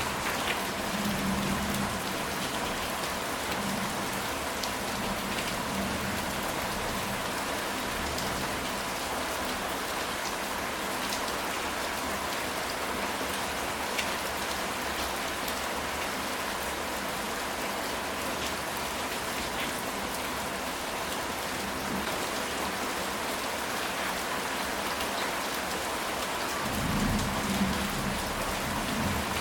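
Steady rain falling on a ceramic tile roof: an even hiss with scattered drop ticks. A low rumble of thunder sounds in the first couple of seconds and again near the end.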